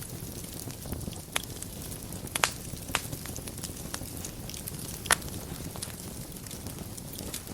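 Wood fire burning in a fireplace: a steady low rumble and hiss of the flames, with scattered sharp crackles and pops, the loudest about two and a half seconds in and again about five seconds in.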